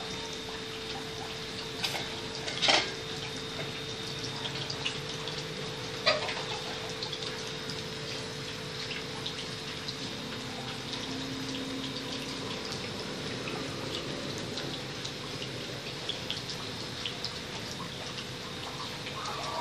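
Refrigerator's sealed system running during an R134a charge: a steady hiss and gurgle of refrigerant flowing, over a steady hum. Two sharp clicks, about three and six seconds in.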